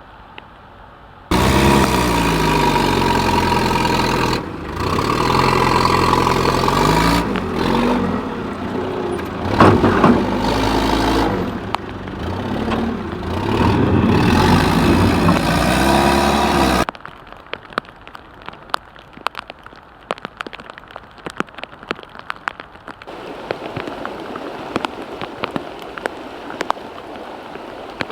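A vehicle engine running loudly, its pitch rising and falling, over heavy rushing noise, broken by abrupt cuts. Then, at a much lower level, rain falling with many sharp drop taps, growing heavier near the end.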